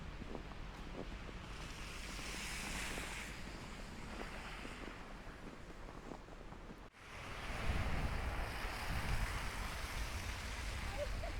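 Wind rushing across the microphone during a snowstorm: a steady noisy hiss with low buffeting rumble. It breaks off for an instant about seven seconds in and comes back louder and heavier.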